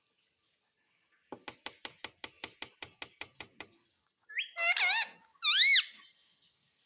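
Pet ringneck parrot: a quick run of about a dozen sharp clicks, then two loud, screechy calls, each rising and falling in pitch.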